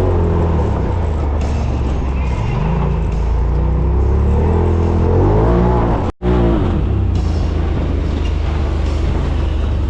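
Side-by-side UTV engine running loud while driving a trail, its pitch rising and falling as the throttle comes on and off. The sound cuts out briefly about six seconds in.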